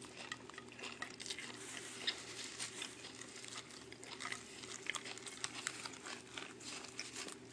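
Faint eating sounds: small crackles and clicks of someone chewing a fresh spring roll with crisp lettuce, over a steady low hum.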